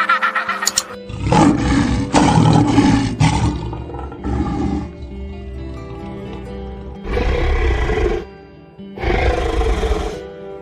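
Background music with steady sustained notes, overlaid by four loud, rough animal calls. The first starts about a second in and is the longest, and the others come at intervals of a couple of seconds.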